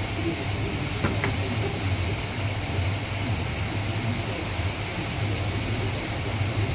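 Workshop machinery running steadily, a low hum under an even hiss, with two short clicks about a second in.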